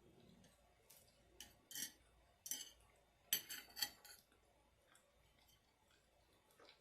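Metal spoon scraping and clinking against a takeout food container in a few short strokes, the loudest cluster about three and a half seconds in.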